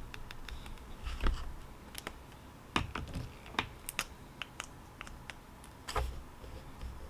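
Typing on a keyboard: irregular key clicks with a few louder clacks scattered through.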